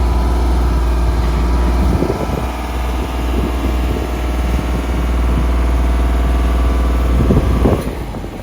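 Vehicle engine running steadily, a loud low drone with a pitched hum over it, heard from a vehicle on the road. The deepest part of the hum eases about two seconds in, and there are a few brief knocks near the end.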